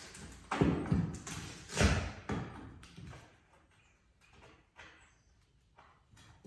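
Hands-on renovation noises: two loud, rough scraping thumps in the first two seconds, then faint scattered taps and rustles.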